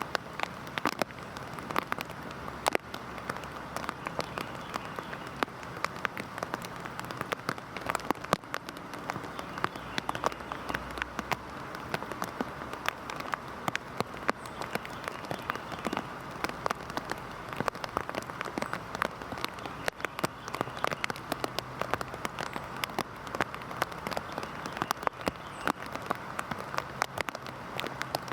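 Heavy rain falling steadily, with a dense patter of individual drops striking a surface.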